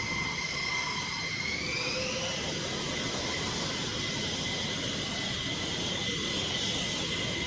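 F-15E Strike Eagle jet engines running with a steady rush and a high turbine whine; one whine tone rises in pitch about two seconds in, as the engines spool up.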